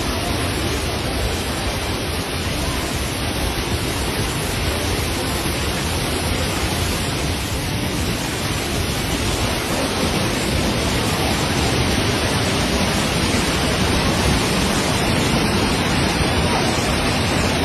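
Fast-flowing floodwater rushing in a steady, dense wash of noise, growing slightly louder near the end.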